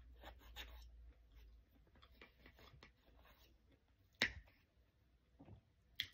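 Soft chewing and mouth sounds of a person eating, then a metal fork clicking sharply against a plate about four seconds in and again near the end.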